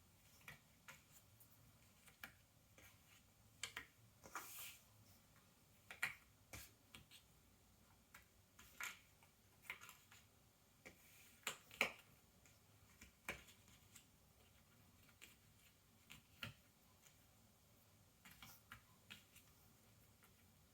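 Cardboard jigsaw puzzle pieces being handled, with irregular small clicks and taps as pieces are picked up, slid and pressed into place on a table, and a brief scraping shuffle about four seconds in.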